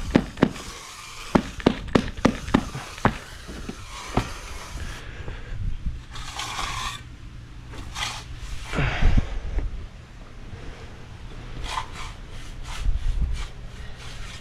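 Tamper knocking on rubber concrete stamp mats laid on wet concrete: a quick run of sharp knocks, about three or four a second, in the first few seconds. Then scraping and shuffling as the mats are moved, with a few more light knocks near the end.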